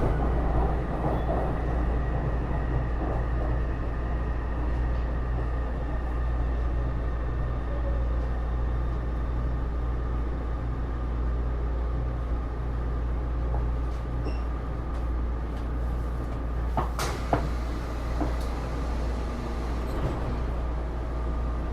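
Taipei Metro Series C301 metro train (Bombardier IGBT-VVVF traction) heard from inside the car: steady running rumble with a faint steady whine, and a sharp clack about 17 seconds in.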